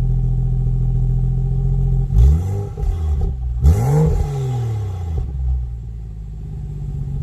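BMW F30 engine idling, then revved twice in quick throttle blips, about two seconds in and again, higher, about three and a half seconds in, before settling back to idle. The car has a valved exhaust whose valve is controlled by a JB4 module.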